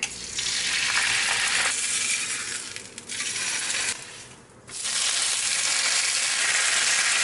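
Eggs and then bacon strips sizzling in hot oil in a non-stick frying pan, a steady sizzle that drops away briefly about four seconds in.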